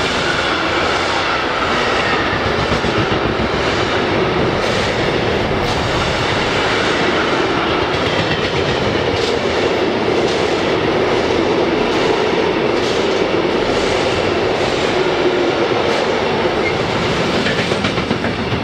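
Freight wagons of a mixed freight train rolling past close by. The wheels on the rails make a steady, loud rumble with scattered clicks.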